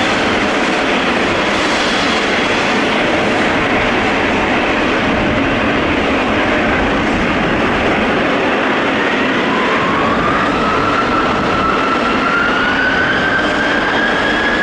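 Boeing 777 jet engines running with a loud, steady rush of noise. About two-thirds of the way in, a whine rises slowly in pitch as the engines spool up.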